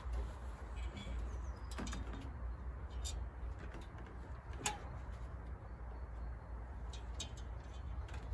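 Scattered light clicks and knocks of plastic gutter parts and hooks being handled and fitted, with one sharper click about halfway through, over a low steady rumble.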